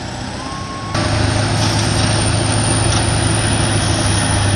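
Heavy diesel tractor engines of Kirovets K-700s running hard under load in a tug of war. The sound jumps abruptly louder about a second in, then holds steady.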